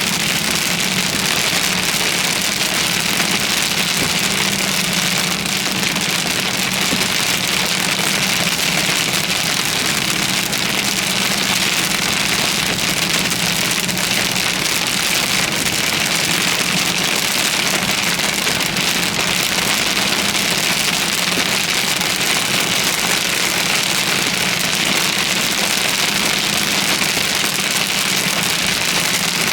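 Heavy rain beating on a car as it drives through a thunderstorm downpour, a steady dense hiss with the constant low hum of the vehicle underneath.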